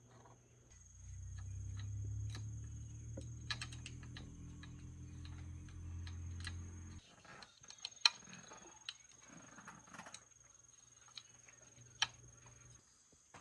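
A low machine hum starts about a second in and cuts off abruptly about seven seconds in. Scattered sharp clicks and light taps run throughout, over a faint steady high-pitched tone.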